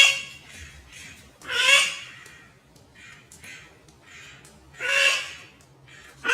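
A bird calling loudly: short, half-second calls a few seconds apart.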